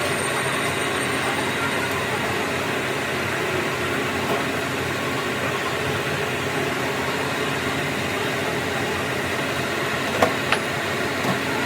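Steady hum of workshop machinery running, with two sharp metallic clicks about ten seconds in.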